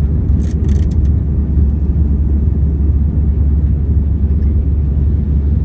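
Steady low drone of an Airbus A321's engines and airflow heard inside the passenger cabin, with a brief hiss about half a second in.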